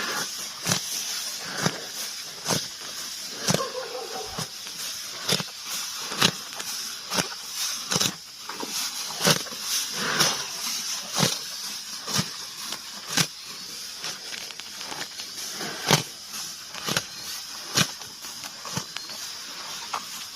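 Water buffalo grazing: sharp rips and snaps of grass being torn off, irregular, one or two a second, over a steady high hiss.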